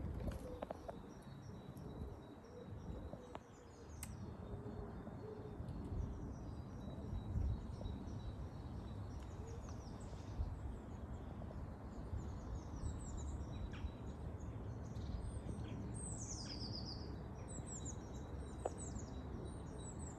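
Wild birds chirping and singing in short high calls and downward-sliding trills, busier in the second half with a bright descending trill late on, over a steady low background rumble.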